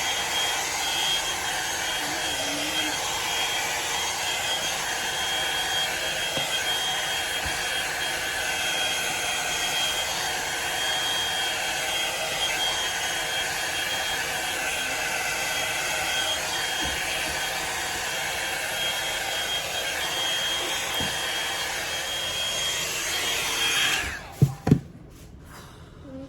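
Drybar Double Shot blow-dryer brush running steadily, a rushing blow with a thin high whine, then switched off near the end. Two sharp knocks follow right after it stops.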